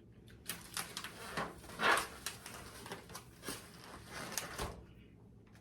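Handling noise from food and its containers being moved about: a run of irregular rustles and clicks, the loudest about two seconds in.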